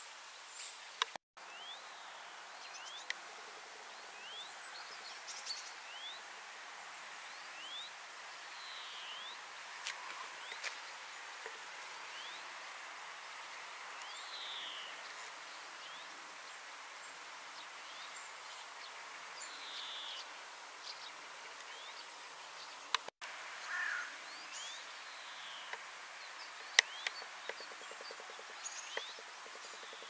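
Birds chirping: short, falling chirps scattered over a steady outdoor hiss, with a few sharp clicks. The sound cuts out completely for a moment twice.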